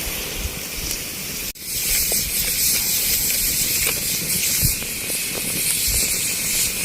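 Steady hiss of heavy rain falling, with a few faint ticks and a sudden momentary break about one and a half seconds in.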